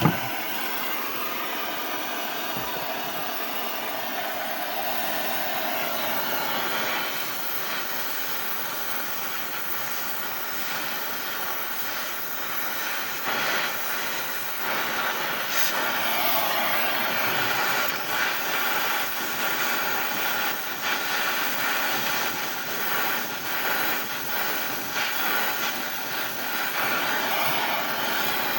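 Brazing torch flame burning steadily while the new expansion valve's copper fitting is brazed on; it grows a little louder and more uneven about halfway through.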